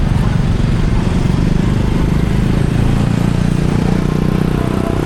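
Car driving through city traffic: a steady low rumble of engine and road noise, swelling a little about three to four seconds in.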